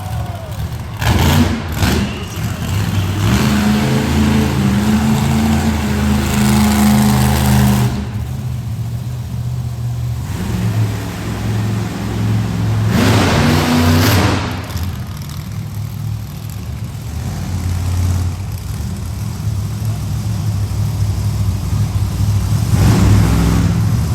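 Monster truck engine running and revving, with surges of hard throttle about a second in, around thirteen seconds in, and again near the end.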